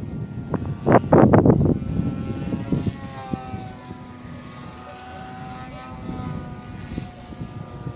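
Wind buffets the microphone in heavy gusts for the first two seconds, then the scratch-built F-22 model plane's motor and propeller come through as a steady, fainter whine whose pitch wavers slightly.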